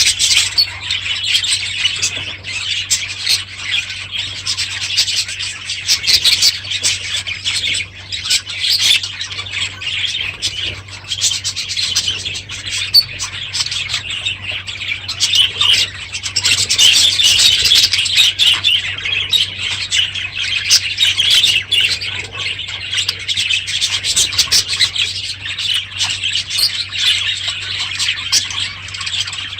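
A flock of budgerigars chattering, with many quick chirps, warbles and squawks overlapping without a break.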